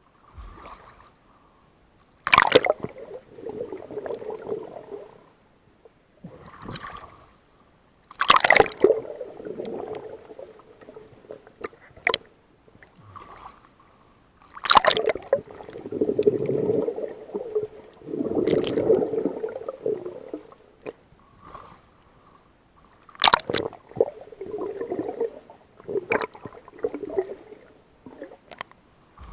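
Water splashing and gurgling: a sharp splash every several seconds, each followed by a few seconds of sloshing.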